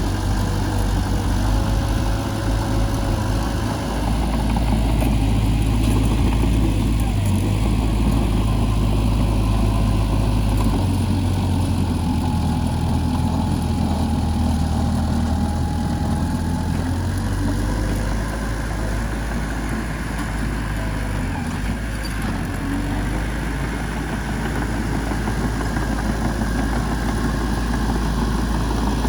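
Diesel engine of heavy machinery running steadily, its low note shifting a few times as the load changes.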